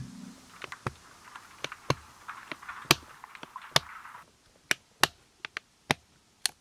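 Irregular sharp plastic clicks and taps from hands working the pond filter's housing and O-ring, with a short stretch of soft hiss in the middle.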